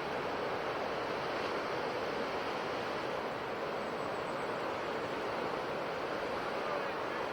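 Ocean waves washing on a shore: a steady, even surf noise with no single breaking wave standing out.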